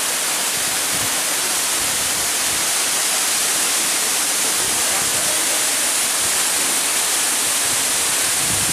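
A tall waterfall crashing down, heard close by as a steady, loud rush of water.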